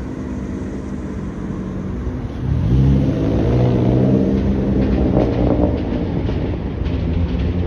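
A modified car's engine running, revving up about two and a half seconds in and then holding a steady, louder drone.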